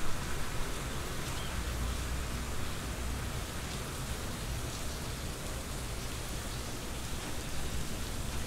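Steady rain falling, an even hiss with a low rumble beneath it and faint scattered drop ticks.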